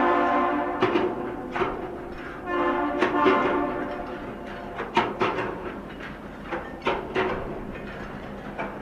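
A horn salute dies away in the first second, and a shorter, quieter horn note sounds about two and a half seconds in. Around it come about ten sharp, irregular metal clanks: the deck crew knocking the hatch clamps off the freighter's hatch covers before unloading.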